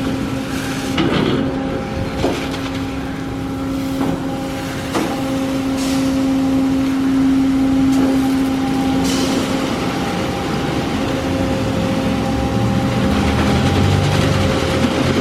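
D&S Odyssey car wash machine running: a steady motor whine over a noisy wash of spray and brush sound, with a few knocks.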